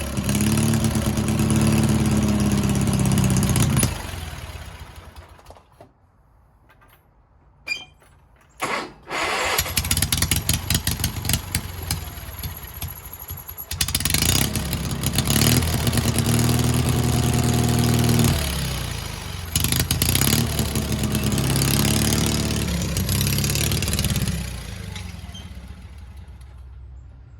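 Sears garden tractor's small gas engine running with its speed rising and falling, dying out about five seconds in, then catching again after a couple of sharp clicks about eight to nine seconds in and running on before fading near the end. The engine is running again on a freshly rebuilt fuel pump, and the owner says the carb needs some adjustment.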